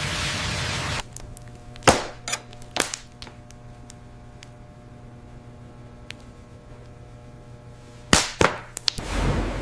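Industrial machinery: a rushing noise stops about a second in, leaving a low steady hum. Over it come sharp bangs, three about two seconds in and three more near the end.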